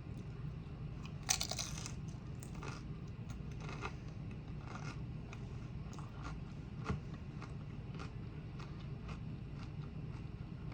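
Tortilla chips crunching as they are bitten and chewed close to the microphone: one loud crunch a little over a second in, then softer crunches about once a second, over a steady low hum.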